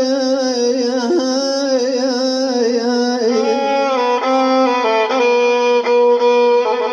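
Violin playing a slow, ornamented melodic phrase with vibrato, moving through stepwise notes in its second half. It is the instrumental answer between the sung lines of an Iraqi Mohammadawi mawwal.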